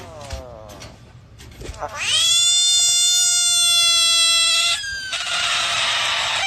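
A frog screaming: a loud, steady, high-pitched wail held for nearly three seconds, then after a short break a harsh, hissing scream. A shorter falling call comes first.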